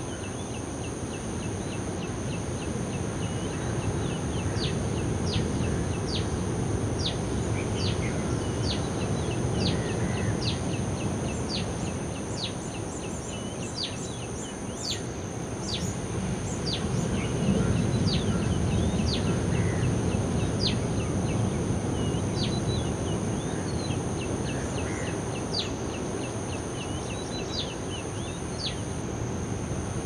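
Outdoor ambience: a bird calling over and over with short, sharp, falling chirps about once a second, over a steady high-pitched hum and a low background rumble.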